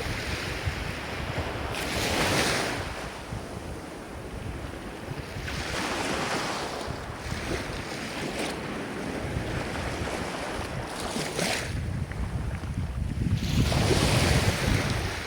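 Ocean surf: waves breaking and washing in, swelling four times over a steady low rumble, the last surge the loudest.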